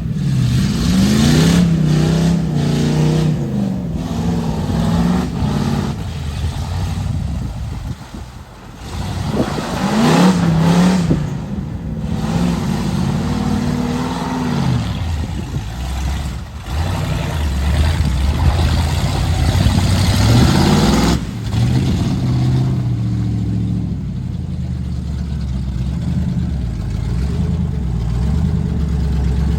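Mud truck's engine revving hard, its pitch climbing and falling several times, then running lower and steadier near the end.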